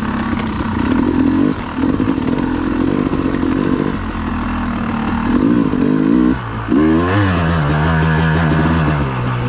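Yamaha YZ250X two-stroke dirt bike engine under way, its revs rising and falling with the throttle and cut off briefly twice. It runs at lower, steadier revs over the last couple of seconds.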